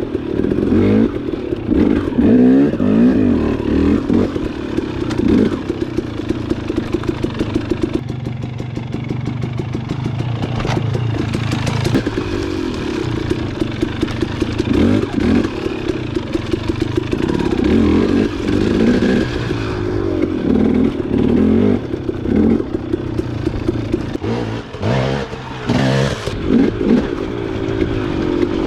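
Dirt bike engine revving up and down over and over as the throttle is worked on a dirt trail, with rattles and clatter from the bike over rough ground.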